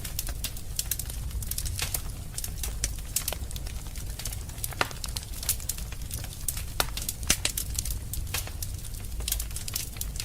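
Wood fire in a fireplace crackling: a steady run of sharp, irregular snaps and a few louder pops over a low, steady rumble of the burning fire.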